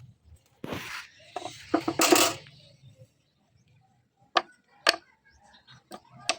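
Scattered metal clinks and knocks of small steel pieces and tools being handled and set down, with a short scrape near the start and single sharp clicks spaced about half a second to a second apart near the end.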